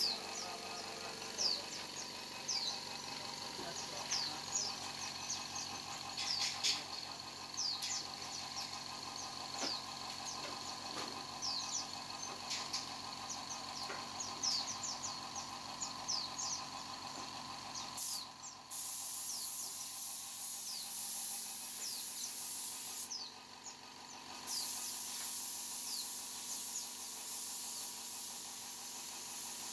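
Paint spray gun hissing steadily as it lays on clear coat, cutting out briefly twice. Many short, high, falling chirps sound over the hiss throughout.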